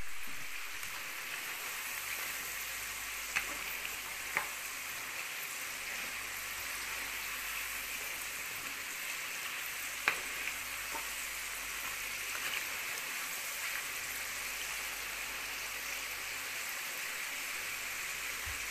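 Potato fries deep-frying in hot oil in a pan: a steady sizzle. A few short clicks of a slotted spatula against the pan come while stirring, the loudest about ten seconds in.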